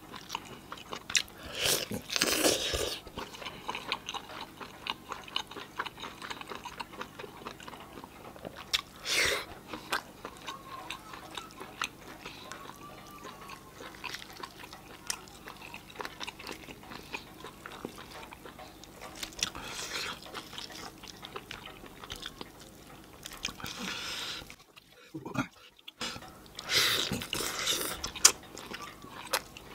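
Close-miked eating sounds: a person chewing and smacking on roast chicken and rice, with fingers tearing the chicken in its gravy. A steady run of small wet clicks, with a few louder bursts and a brief drop almost to silence about 25 seconds in.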